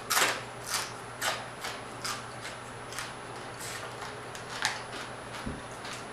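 Close-miked chewing of crispy fried croaker fish: a run of crunchy bites and mouth sounds at irregular intervals, the loudest just after the start. A low thump about five and a half seconds in, over a faint steady hum.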